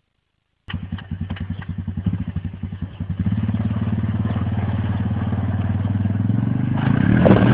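Motorcycle engine running with a regular throbbing pulse, uneven at first and then steadier, growing louder near the end.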